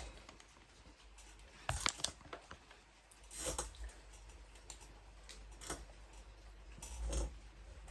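Faint handling noises: scattered small clicks and brief rustles, with louder rustling about two, three and a half, and seven seconds in.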